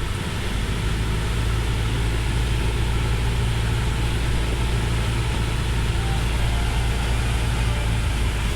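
Cessna 172's piston engine and propeller drone steadily, heard inside the cockpit, a deep even hum with rushing air noise over it.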